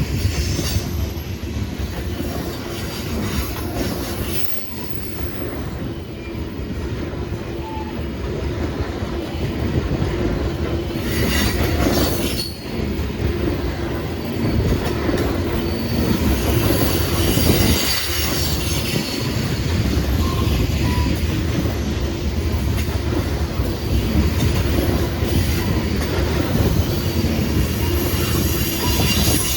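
Freight train cars rolling past on the rails, with a continuous heavy running noise and a high-pitched squeal of steel wheels on rail.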